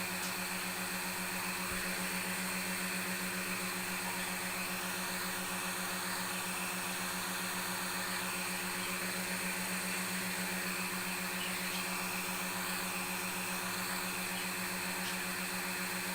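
Sewing machine motors running steadily: a constant electric hum and whine over a hiss, with no change in speed.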